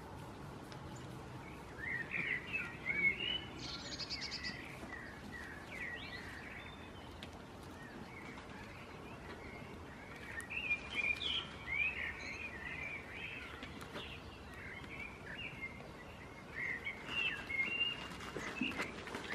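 Small birds twittering and chirping in three spells of quick, high chirps, over faint steady outdoor background noise.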